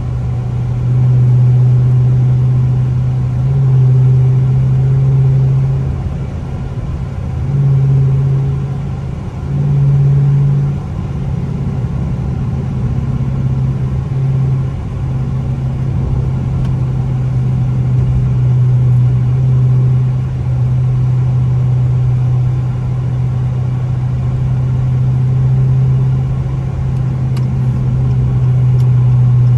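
Loud exhaust of a Dodge R/T car cruising: a steady low drone that swells with light throttle several times in the first ten seconds, then holds even.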